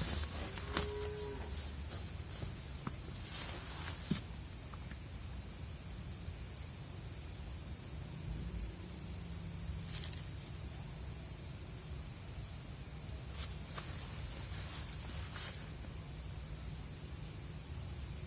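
Night insects, crickets, trilling steadily at a high pitch over a low rumble, with a short low call near the start and a few sharp clicks, the loudest about four seconds in.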